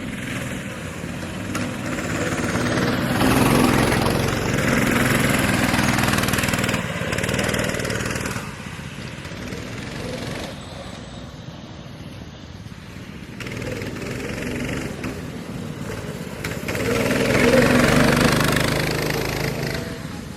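Mini bike engines revving hard as the bikes race around the dirt track, swelling loud as they pass about three seconds in and again near the end, fading between passes.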